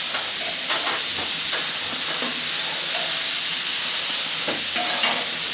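Diced bacon and chopped onions sizzling steadily on a hot plancha griddle.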